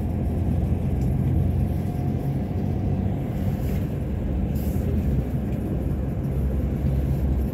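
Steady low engine rumble of a large vehicle, with an even background noise over it.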